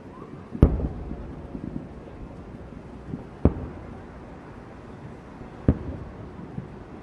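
Aerial fireworks shells bursting: three sharp booms a few seconds apart, the first the loudest, each trailing off in a low rumbling echo, with smaller pops in between.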